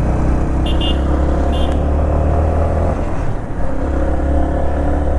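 Motorcycle engine running under way, its pitch dipping briefly a little past halfway and then rising again. Two short high chirps come about a second in and again near two seconds.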